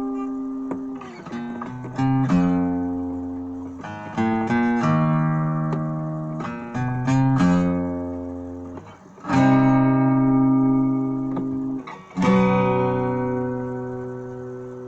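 Acoustic guitar playing slow chords, each struck and left to ring and fade; the last chord, about twelve seconds in, rings out and dies away.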